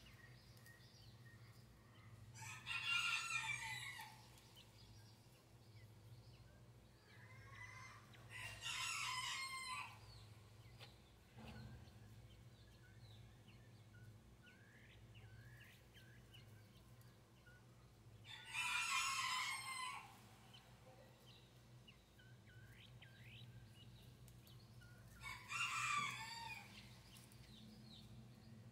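Four loud bird calls, each about a second and a half long, spaced through the stretch. Between them come faint, short, high peeps from Chinese quail chicks hatching under the brooding hen.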